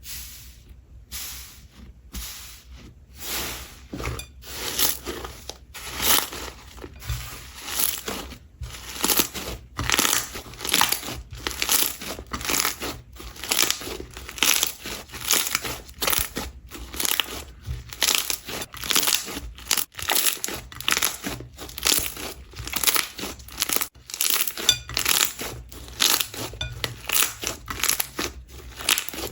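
Slime being squeezed and kneaded by hand, a steady run of short squishes, one or two a second.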